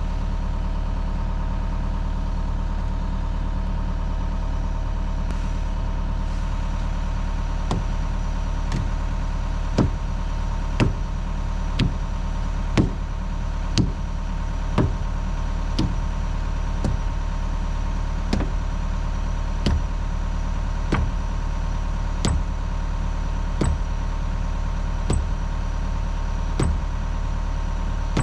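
Diesel engine of heavy equipment idling steadily, with a run of sharp metal-on-metal hammer blows starting about a quarter of the way in, about one a second at first and spacing out toward the end, as steel is hammered to seat a thrown rubber track back onto the undercarriage rollers of a compact track loader.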